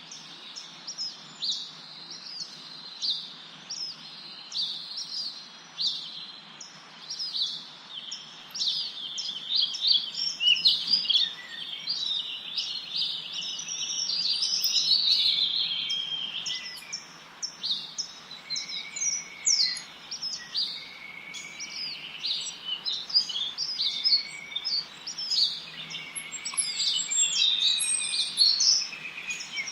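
A chorus of small songbirds chirping and singing, many quick, high, overlapping notes, with a few lower whistled notes joining in during the second half, over a faint steady hiss.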